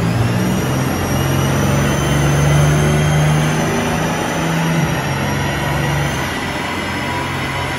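Lexus GS300's swapped-in 2JZ-GTE turbocharged inline-six running on a chassis dyno, holding steady mid revs with a thin high whine over the engine note. The revs sag slightly about five seconds in.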